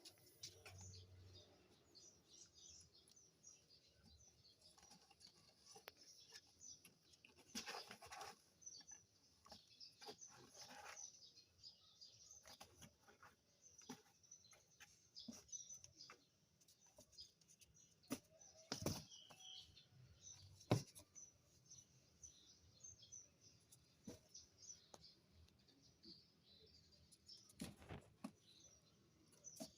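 Lovebirds chirping faintly in short, high calls scattered throughout, with a few sharp clicks or knocks in between.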